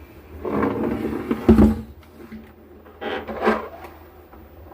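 Handling noise: rubbing and scraping as equipment is moved about by hand, with a loud knock about a second and a half in and another scrape about three seconds in.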